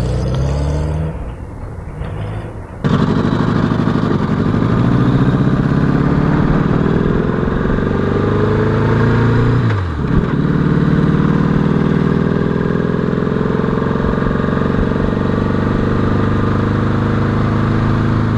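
Honda GL1200 Gold Wing motorcycle's flat-four engine, quieter at first and then, from about three seconds in, accelerating hard. The engine note climbs steadily, drops sharply at a gear change about ten seconds in, and climbs again.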